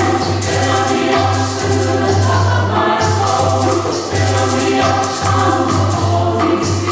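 Chamber choir singing a sacred piece, many voices holding sustained chords together.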